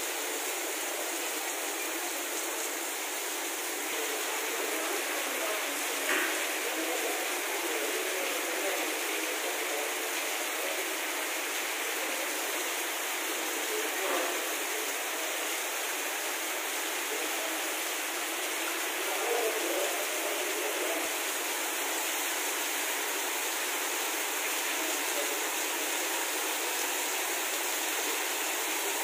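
Heavy rain pouring down steadily onto wet paved ground, an even hiss of water, with a couple of brief knocks about six and fourteen seconds in.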